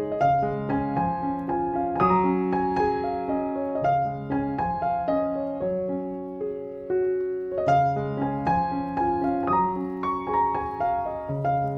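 Background piano music: a gentle melody over chords with many struck notes.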